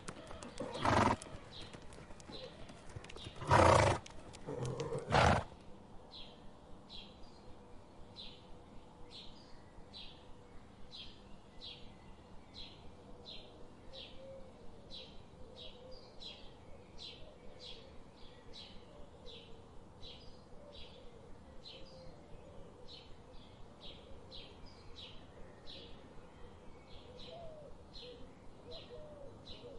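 A horse snorts three times in the first five seconds. After that comes a steady quiet chirping, high and short, about two chirps a second.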